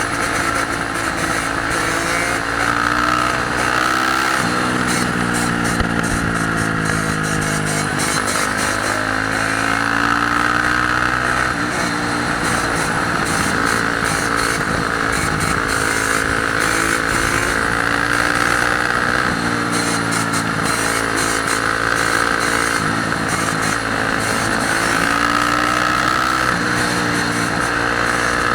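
Dirt bike engines running and revving, their pitch rising and falling. Several engines are heard at once.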